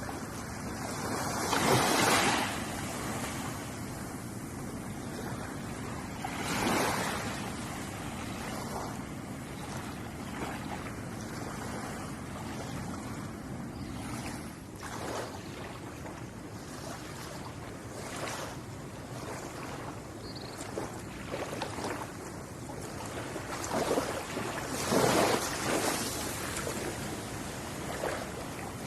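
Ocean surf washing steadily on a shore. Waves break and surge about two seconds in and again around seven seconds, with the loudest breakers coming near the end.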